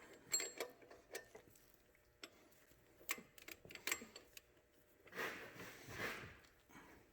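Scattered light clicks and clinks of hand tools working on an alternator's mounting bolt, irregularly spaced, with two short rustling noises about five and six seconds in.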